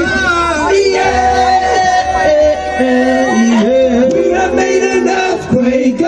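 Live singing over a loud, bass-heavy backing track, the voices holding long sustained notes.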